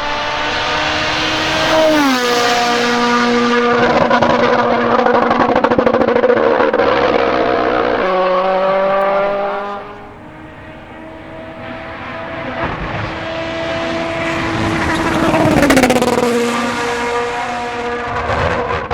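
Ford Puma Rally1 rally car's 1.6-litre turbocharged four-cylinder engine passing flat out twice. Each time the engine note climbs as the car approaches, then drops sharply in pitch as it goes by.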